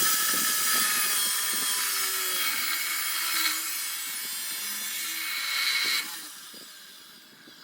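A HiKOKI FCC14ST 355 mm abrasive cut-off saw cutting through 50 mm square steel tube, a loud, high grinding screech. About six seconds in the sound drops sharply and dies away as the cut ends.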